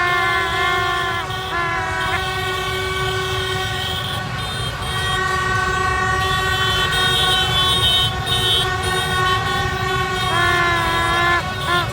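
Many horns blowing and honking at once over a continuous rumble of street traffic. Several held tones overlap, some sliding in pitch, with a dip about 10 seconds in.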